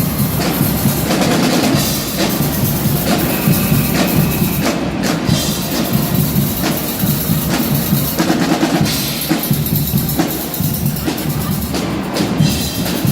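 Guggenmusik carnival band playing loudly, with heavy bass drum and snare drumming throughout.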